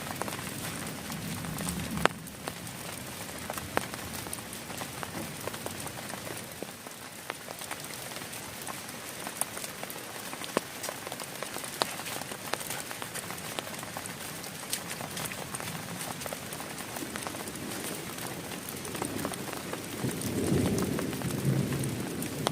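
Heavy rain falling steadily on a plastic tarp over a tent, thick with sharp individual drop taps. One sharp knock comes about two seconds in, and a louder low rumble rises near the end.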